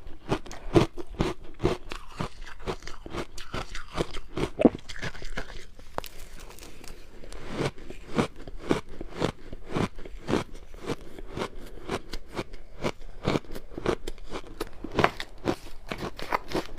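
Close-miked crunching of purple ice being bitten and chewed, a steady run of sharp crunches a few times a second.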